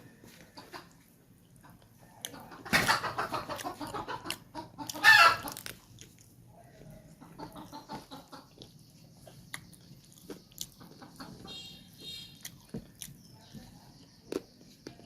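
Domestic chickens clucking and cackling, loudest in a run of calls about three seconds in and one sharp call about five seconds in, with scattered small clicks between.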